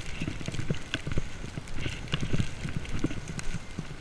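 Footsteps trudging through deep snow: an irregular run of crunches and low thumps, several a second.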